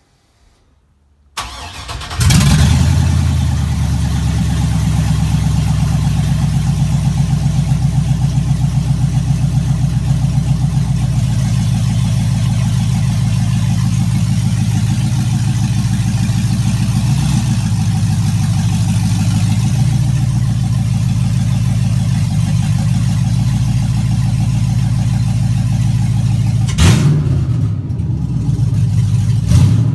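LS V8 engine swapped into a Ford F100 cranks briefly and fires about two seconds in, then runs loudly at a steady idle with an even, rapid pulse. Near the end the engine note briefly changes, as from a short blip of throttle.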